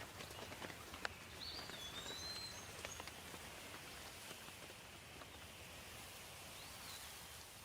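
Light rain falling steadily, with scattered single drops ticking close by. A bird chirps briefly a couple of times, once about a second and a half in and again near the end.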